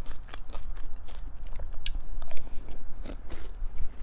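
Close-miked chewing of breakfast cereal, with a quick run of irregular crisp crunches.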